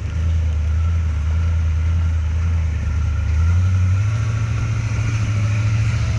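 A motor engine running steadily with a low hum, its pitch stepping up about three and a half seconds in.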